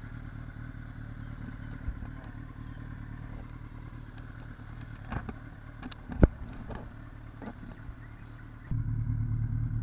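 Motorcycle engine idling steadily, with a few sharp knocks or clicks over it; the engine sound gets louder near the end.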